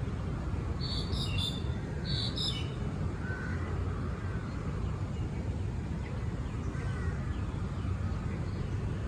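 Park birds calling: two loud bursts of high, quick chirps about one and two seconds in, then scattered fainter chirps. A steady low background rumble runs underneath.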